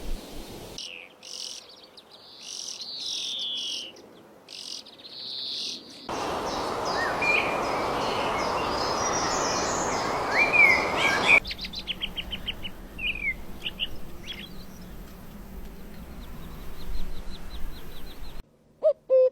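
Several species of songbirds chirping and singing in a series of separate recordings that cut abruptly from one to the next. In the middle, a steady rushing noise sits under the birds. Near the end, low hoots begin.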